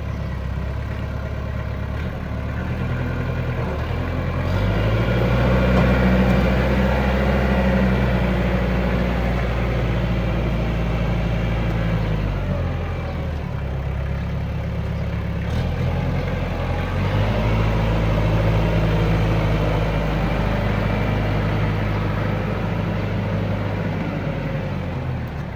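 Kubota M9000 tractor's diesel engine running, revving up about four seconds in and settling back about halfway, then revving up again and dropping back near the end, as the tractor is driven forward and in reverse.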